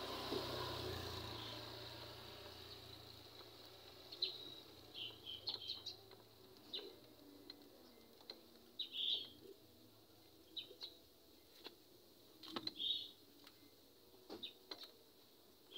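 Small birds chirping on and off, short high calls scattered through, with a few sharp clicks between them. A dull noise fades out over the first few seconds.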